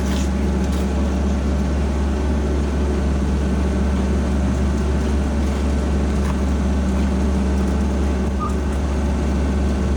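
Car engine running at a steady speed, a constant low hum with a few steady tones above it.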